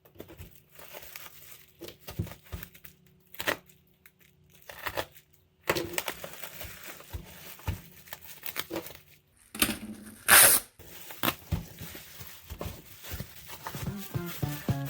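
Handling noises: scattered clicks, knocks and rustling, with one short, loud burst of noise about ten seconds in. Music comes in near the end.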